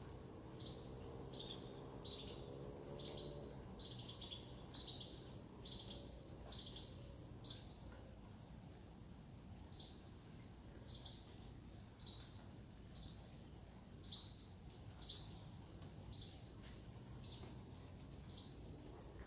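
A bird repeating a short chirp, some notes doubled, about once a second, faint over a low background hum.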